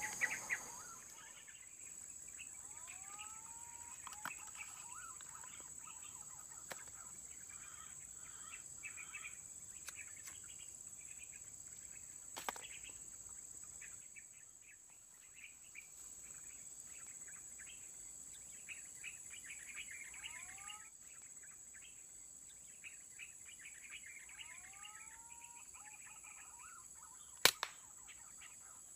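Birds calling in forest cover: a few whistled, arched rising-and-falling calls and scattered chirps over a steady high insect drone. There is a sharp click about twelve seconds in and a louder one near the end.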